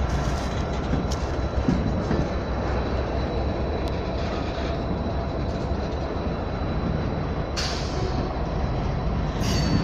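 Tank cars of a freight oil train rolling past at close range: a steady rumble of steel wheels on rail, with a couple of sharp clicks near the end.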